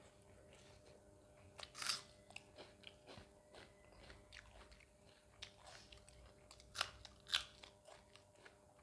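A person chewing a mouthful of curry-soaked food close to the microphone: scattered wet clicks and crunches, with the loudest crunches about two seconds in and twice near the seven-second mark.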